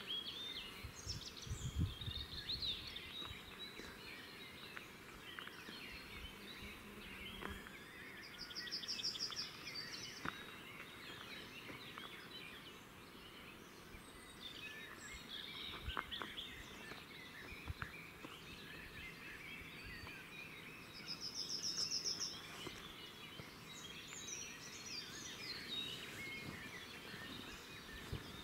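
Faint woodland birdsong: several birds chirping and warbling, with one short buzzy trill heard twice, about twelve seconds apart.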